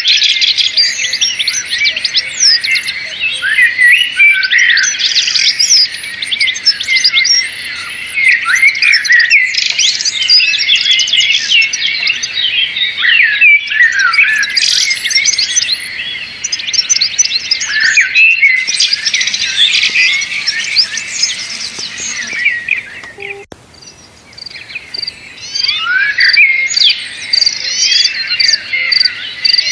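Many small birds chirping and twittering at once, a dense chorus of quick, high, overlapping calls. It drops away briefly about three quarters of the way through, then resumes with a rapid, evenly spaced series of high pips mixed in near the end.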